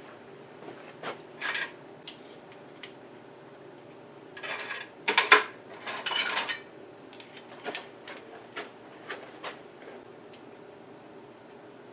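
Metal tools and hardware clinking and rattling in scattered knocks, with a denser stretch of clatter about halfway through, over a faint steady hum.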